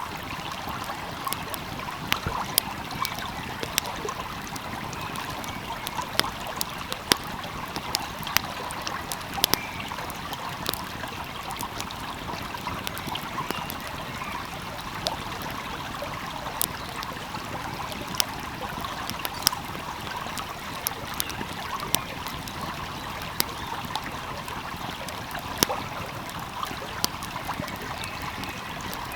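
A stream flowing steadily, with a wood fire crackling over it in sharp, irregular pops, several every few seconds.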